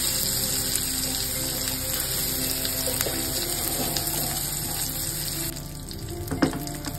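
Rice-flour-coated crabs shallow-frying in oil in a nonstick pan on a low flame: a steady, even sizzle. It turns quieter about five and a half seconds in.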